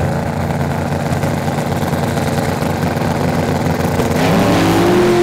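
Drag racing car engines running steadily on the start line, then revving with the engine note rising sharply in pitch about four seconds in.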